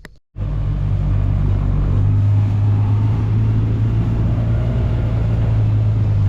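Gas golf cart engine running steadily under way, a loud low drone that comes in abruptly about a third of a second in.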